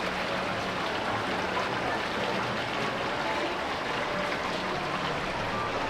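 Steady shopping-mall background noise: a continuous even wash of indistinct sound with faint fragments of distant voices and a low hum underneath.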